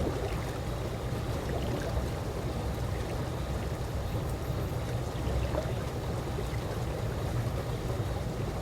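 Calm pool water moving gently: a steady, even watery wash with no distinct splashes.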